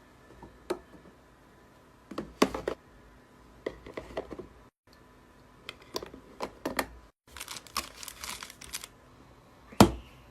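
Small hard objects being handled: a string of light clicks and taps, a short rustle, then a louder knock near the end, over a faint steady hum.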